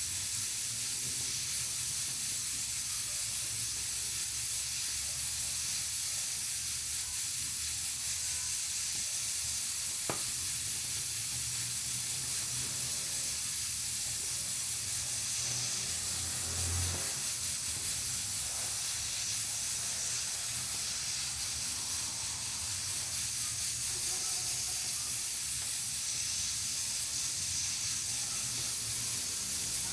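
Pressure cooker on a wood-burning stove hissing steadily as steam escapes from its valve, with a single sharp click about a third of the way in.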